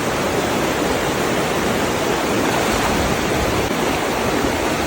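Steady rushing of fast-flowing water, as of a mountain stream or river.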